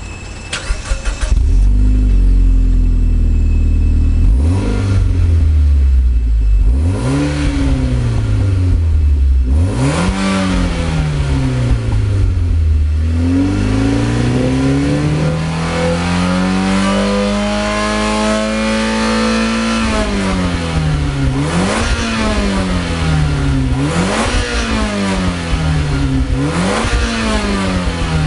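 Mitsubishi Lancer Evolution X's 2.0-litre turbocharged four-cylinder (4B11T) through a Kakimoto Class KR aftermarket muffler, idling and then revved. Three short blips come first, then one long rev held and slowly climbing for several seconds, then four quick blips near the end, each falling straight back toward idle.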